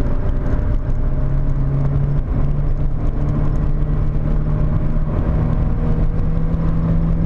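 Volkswagen Corrado's 1.8-litre 16-valve four-cylinder engine running steadily under way, heard from inside the cabin over road noise; its pitch steps up about two seconds in and then climbs slowly.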